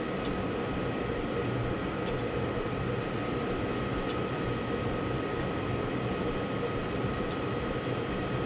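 Two-stage gas furnace running steadily, its draft inducer fan and burners making an even machine noise with a faint high tone. The high pressure switch is holding closed, so it is running in high fire.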